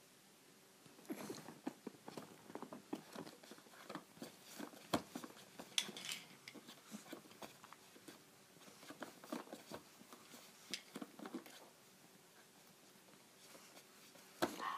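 A baby's soft, irregular mouth clicks and smacks, like wet lip-smacking and chewing sounds, with a louder short sound near the end.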